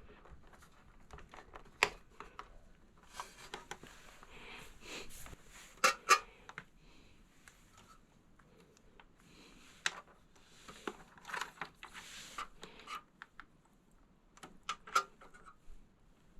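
Hands handling cables and computer hardware: scattered clicks and knocks with two stretches of rustling.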